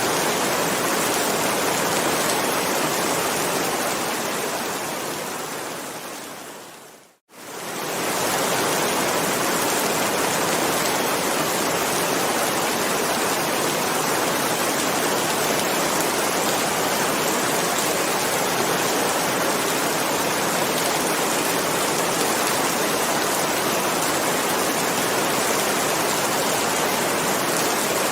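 Steady heavy rain. About seven seconds in it fades away to a moment of silence, then quickly fades back in and runs on evenly.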